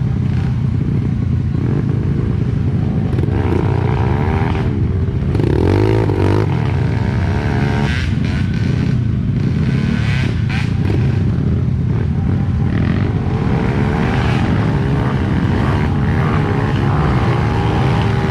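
Off-road trail motorcycle engine running loud, its revs rising and falling again and again as it is ridden, with occasional brief rattles and knocks from the bike.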